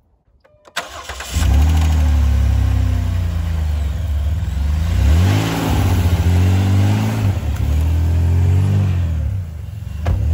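Dodge minivan V6 engine, running on canola oil in place of motor oil, starting up about a second in and then running loud, revved up and back down twice.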